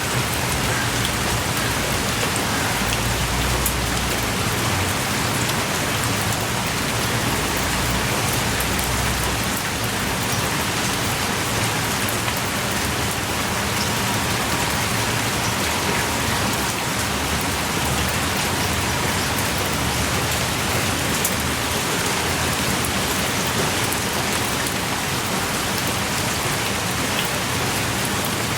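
Heavy rain pouring steadily, with scattered sharper drop ticks over the dense patter.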